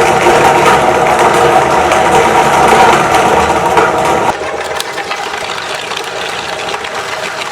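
Electric meat grinder motor running with a steady whine, crackling as it works. About halfway through it becomes noticeably quieter and lighter.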